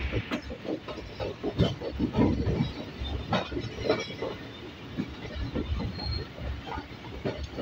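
Train running along the track, heard from aboard a carriage: a steady low rumble of the wheels with irregular knocks and clatter.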